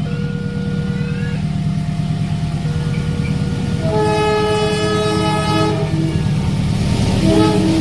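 Train horn sounding a long multi-tone blast of about two seconds starting about four seconds in, then a short toot near the end, over a steady low engine rumble. Thin steady electronic tones, typical of a level-crossing warning signal, sound in the first few seconds.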